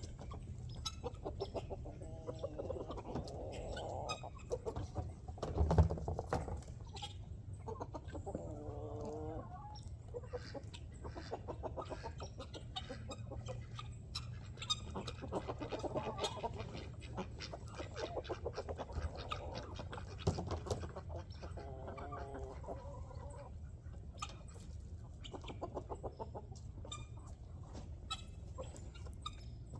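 A flock of chickens clucking, with calls coming in runs of a second or two, over many short clicks and a steady low hum. A single thump about six seconds in is the loudest sound.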